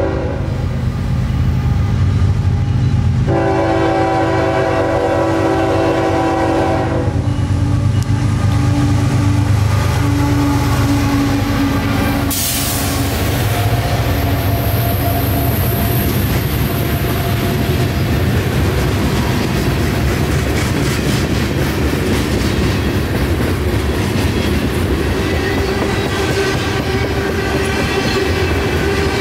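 CSX freight train's diesel locomotives powering out of a stop, with the horn sounding a chord for about four seconds a few seconds in, then the steady heavy rumble of the engines under load and the train rolling by.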